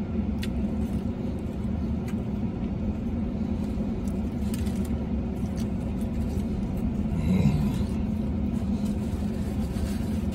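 Steady low hum of an idling vehicle heard inside its cabin, with faint clicks from chewing and handling a sandwich wrapper.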